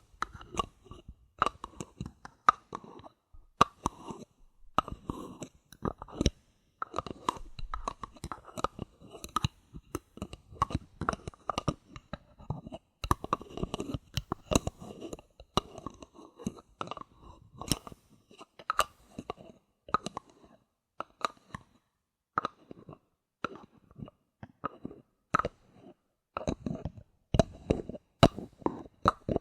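Bottle caps handled close to the microphone: a dense, irregular run of small clicks, taps and crunchy scratches with no pauses longer than about a second.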